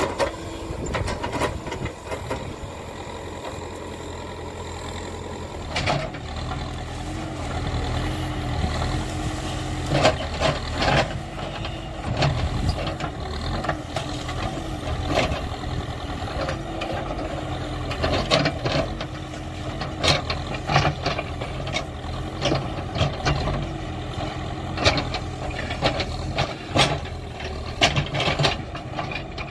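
Backhoe loader's diesel engine running steadily, with a whine that wavers in pitch from about six seconds in. Repeated sharp knocks and clanks sound throughout.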